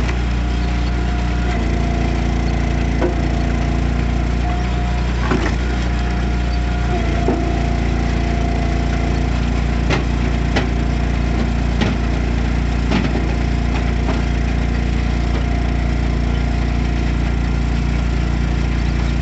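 Easton Made Axis log splitter with its engine running steadily, while logs split with a series of sharp wood cracks every second or two.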